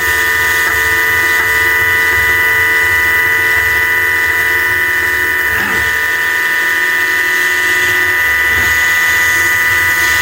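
High-speed spindle of a 4-axis CNC milling machine running steadily while cutting metal, giving a steady high-pitched whine made of several tones at once.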